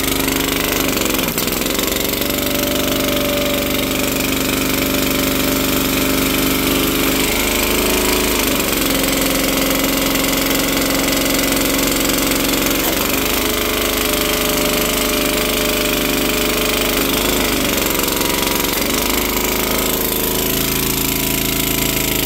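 Kohler SH265 single-cylinder small engine running steadily just after a rebuild (new carburettor, spark plug gapped to 0.011 in, valves adjusted), idling nicely. Its speed dips and picks up again several times.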